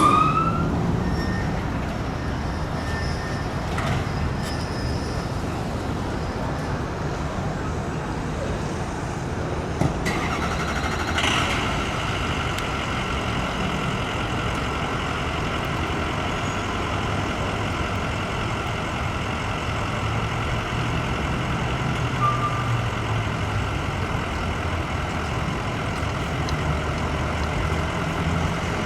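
A siren's wail cuts off right at the start, then a heavy vehicle's engine runs steadily with road traffic noise.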